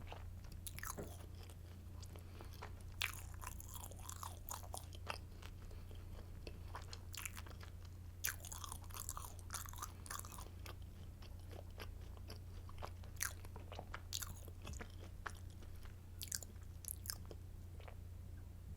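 Close-miked biting and chewing of a crunchy garlic baguette stick, with irregular crisp crunches, over a steady low hum.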